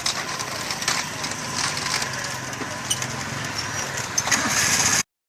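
Busy street ambience: the running noise of motor traffic with scattered clicks and knocks, rising to a louder hiss about four seconds in before the sound cuts off abruptly.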